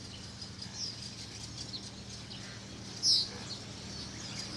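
Small birds chirping with short, high calls, one louder call about three seconds in that sweeps downward.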